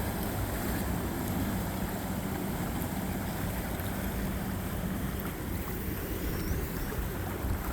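Motorboat engine drone with churning water, and wind on the microphone.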